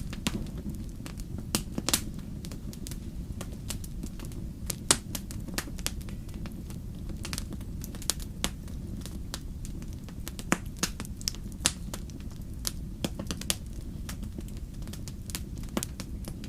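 Wood fire burning steadily with a low rumble and irregular sharp crackles and pops of burning logs, the loudest pop about five seconds in.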